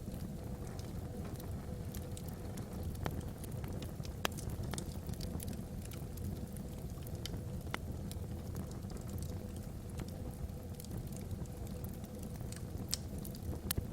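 Wood logs burning in a fireplace: a steady low rumble of flame, with scattered sharp crackles and pops.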